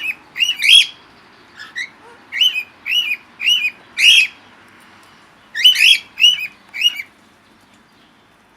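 A bird singing in the aviary: about a dozen short, loud chirping notes, each rising and falling, in two runs with a brief pause in the middle, stopping about seven seconds in.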